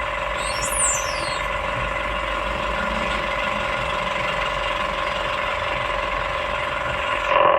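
Excavator's diesel engine running steadily with an even droning hum. A brief high squeal comes about a second in, and the sound swells louder near the end.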